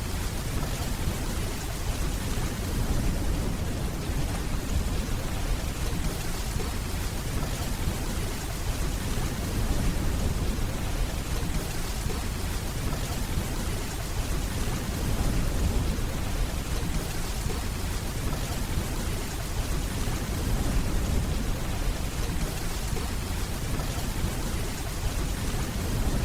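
Steady rainfall with a low, continuous rumble of distant thunder underneath.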